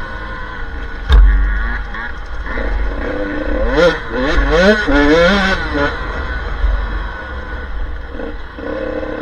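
Off-road motorcycle engine revving up and down repeatedly as it is ridden, with a sharp knock about a second in, the loudest moment, followed by a heavy low rumble.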